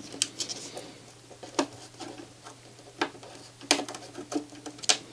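Small tools clicking and tapping on a circuit board a few times, scattered and irregular, as a desoldered motor-driver IC is worked loose and lifted out. A low steady hum runs underneath.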